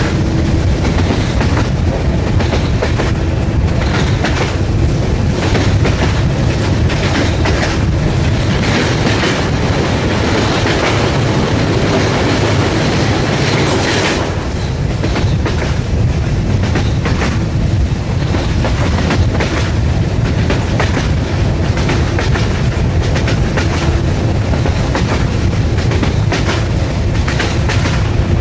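Passenger train running at speed, heard from beside the carriages: a steady loud rumble with the wheels clicking over the rail joints. The sound thickens and then changes abruptly about halfway through, as the train passes through a tunnel.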